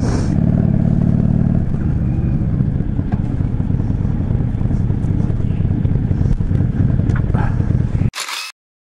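Yamaha Drag Star 400's air-cooled V-twin engine running at low speed as the motorcycle rolls slowly, with wind on the helmet-camera microphone. It cuts off abruptly about eight seconds in, followed by a brief hiss and then silence.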